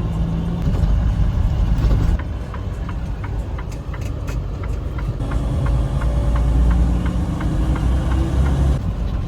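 Semi truck's diesel engine running as the truck drives, heard from the cab, its pitch shifting a few times. A run of light, regular clicks sounds over it through the middle.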